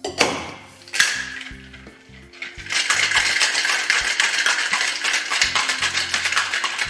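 Two sharp knocks, then from about three seconds in ice cubes rattling fast and steadily inside a cocktail shaker being shaken, over background music.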